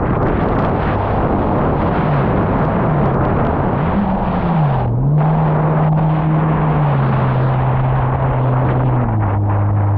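Jet ski engine running under way, its pitch wavering up and down with the throttle, dipping about five seconds in, then holding steady and stepping down twice toward the end, under a heavy rush of wind and water spray on the handheld camera.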